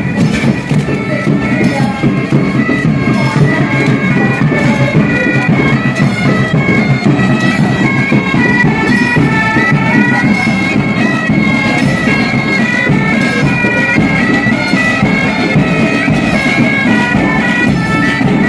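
Bagpipes playing a marching tune: a melody of quick, stepping notes over a continuous drone.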